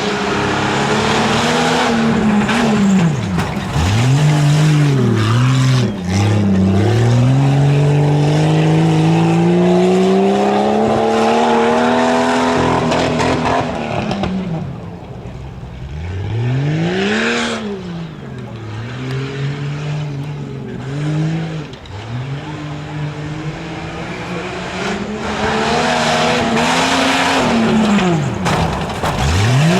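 A 4x4 competition truck's engine revving hard and backing off again and again as it runs an off-road course. The pitch swings up and down in short arcs, with one long climbing rev in the middle.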